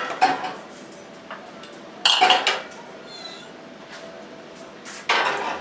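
Glass mason jars clinking and knocking together as they are handled and set on a shelf, in three bursts: at the start, about two seconds in, and near the end.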